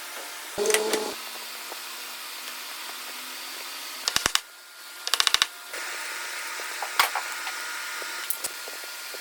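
Hand work with tools in a woodworking shop: a knock with a brief ringing tone, then two short runs of rapid clicks and a couple of single clicks, over a steady background hiss.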